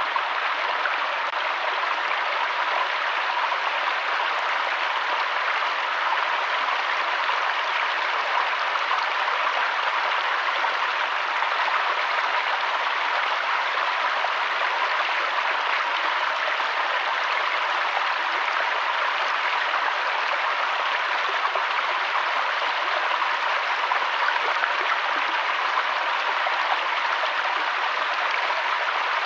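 Steady, even rush of running water, holding one level throughout.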